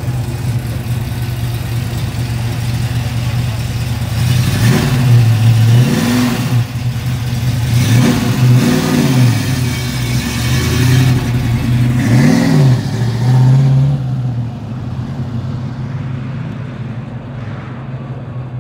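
A Ford Mustang GT350's V8 idling, then revved several times, the pitch rising and falling with each blip of the throttle, before the car pulls away and the sound fades.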